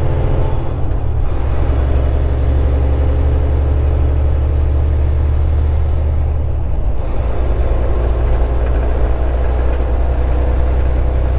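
Semi-truck cab at highway speed: a steady low diesel engine drone with road and wind noise.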